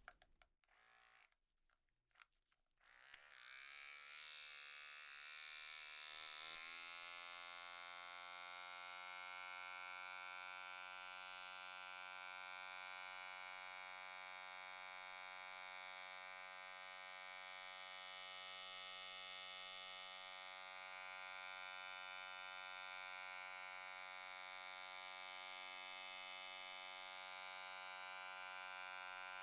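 Electric pore vacuum (suction tool) switching on about three seconds in, rising briefly in pitch as its motor spins up, then running with a steady, faint, vibrating electric hum.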